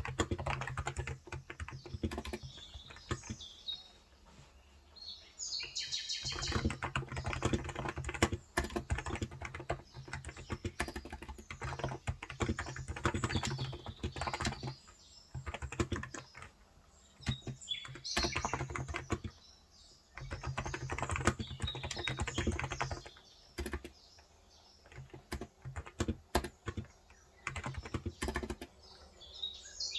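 Typing on a Cox Endeavor electro-capacitive keyboard with light 35 g keys, in runs of quick key clicks broken by short pauses. Small birds chirp faintly now and then in the background.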